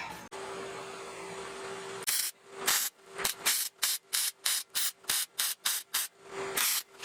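About two seconds of faint steady hum, then a quick series of short hissing, scraping strokes, about three a second.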